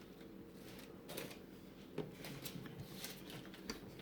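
Faint rustling and a few light clicks and taps of kitchen handling, the sharpest about two seconds in, over a steady low hum.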